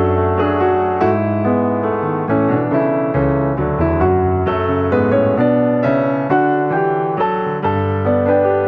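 Music: piano playing a steady flow of notes over held low bass notes.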